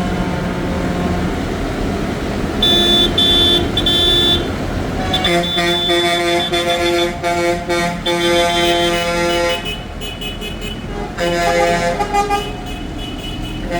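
Tractor horns tooting in repeated short blasts over the steady running of passing tractor engines.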